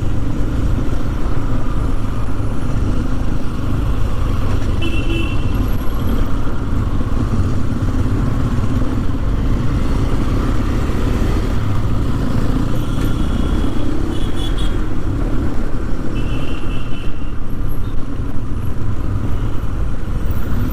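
Motorcycle riding through busy city traffic: a steady engine and road rumble, with several short horn beeps from the traffic.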